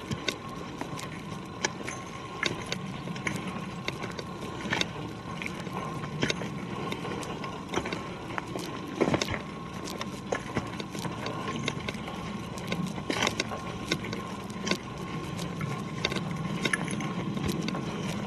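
Footsteps on a forest trail: irregular crunches and clicks over a steady rustling from walking.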